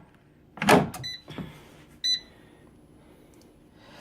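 A short clatter as the air fryer's drawer goes in, then two short electronic beeps about a second apart from a digital air fryer's control panel.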